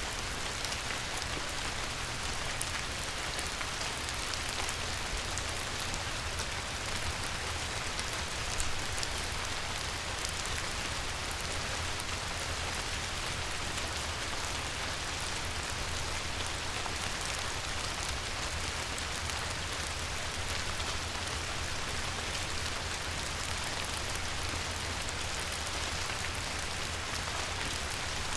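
Light rain falling steadily on a river: an even hiss of many small drop ticks over a low steady rumble.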